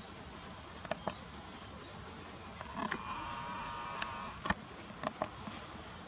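A camera's zoom motor whirs briefly, a thin whine of about a second around the middle, with a few sharp handling clicks before and after it.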